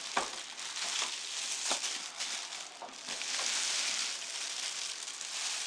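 Plastic and foam packaging crinkling and rustling as a coffee maker is pulled out of its box, with a few light knocks.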